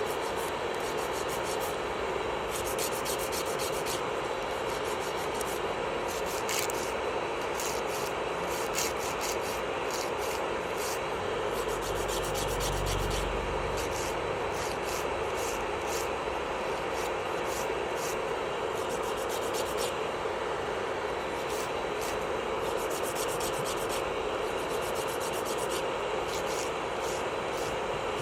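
Electric nail drill (e-file) running at a steady speed, its bit grinding and sanding against a fingernail with fine scratchy ticks over a constant motor whine. A low bump comes about twelve seconds in.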